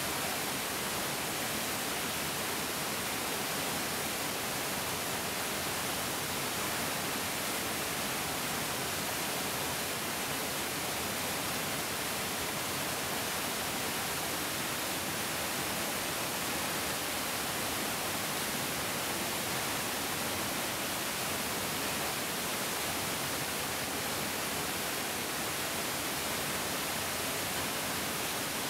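Mountain stream rushing: a steady, even rush of flowing water that holds the same level throughout, with no splashes or other events standing out.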